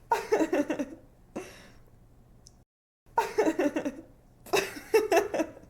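A young woman laughing in three bursts of quick, giggly laughter, with an in-breath after the first.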